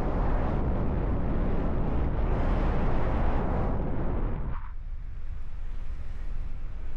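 Wind buffeting the microphone of a paraglider in flight. It is heavy at first and eases suddenly about four and a half seconds in to a lower rumble.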